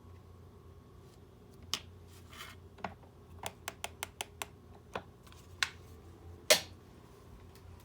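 A run of small, sharp clicks and taps, handled parts and tools on a smartwatch being repaired. They come irregularly, several in quick succession in the middle, with one louder click about six and a half seconds in.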